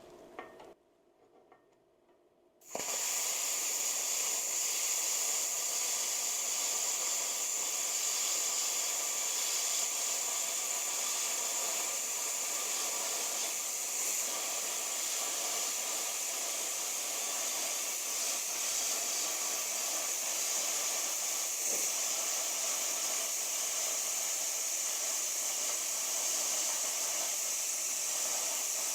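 A cutting torch hissing steadily as it cuts through steel plate. The hiss starts suddenly about three seconds in, after a short near-silent moment.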